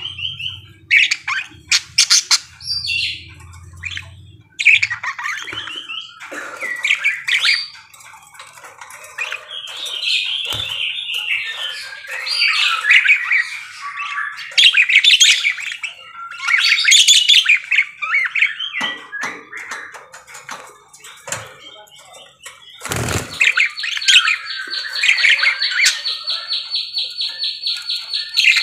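Budgerigar chattering and warbling, with squawks and chirps. About two-thirds through, a sharp knock is followed by a fast, even trill.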